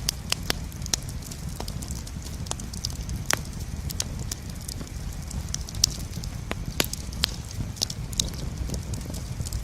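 Wood campfire burning and crackling, with irregular sharp pops and snaps over a low steady rumble.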